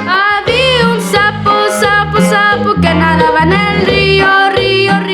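Norteño music led by an accordion playing a melody over an alternating, oom-pah bass line. A sliding vocal note comes in about half a second in.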